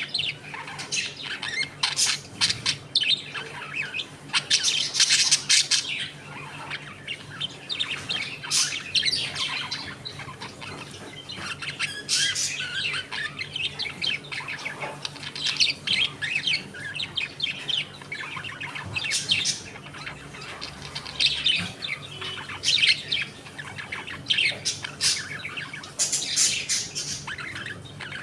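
A flock of budgerigars chirping continuously, many calls overlapping, with louder bursts of chirps every few seconds.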